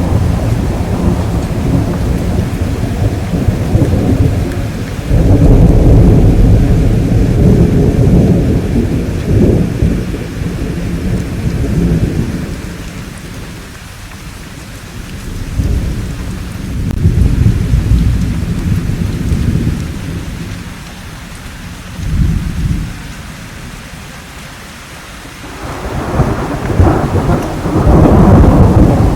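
Thunder rolling in long, deep rumbles over steady rain, fading to lulls around the middle and swelling loud again near the end.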